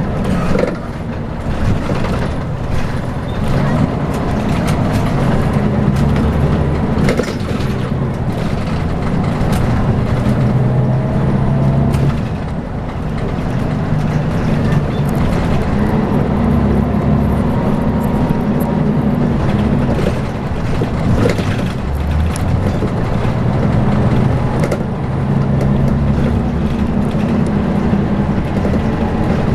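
Scania L94UB single-deck bus's five-cylinder diesel engine running on the move, heard from on board. The engine note dips and picks up again a few times as the bus eases off and pulls away, with scattered knocks and rattles from the body.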